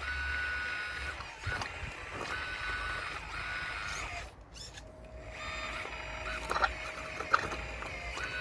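Radio-controlled model excavator working, its electric motors whining in short spells that start and stop as the arm and tracks move. Two sharp knocks near the end, the loudest sounds.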